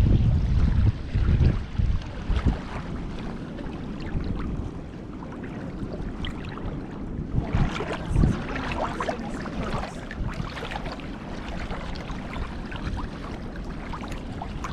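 Wind buffeting the microphone aboard a moving boat, over the wash of water. Gusty in the first couple of seconds, then steadier, with a busier, crackling stretch of water noise from about halfway through.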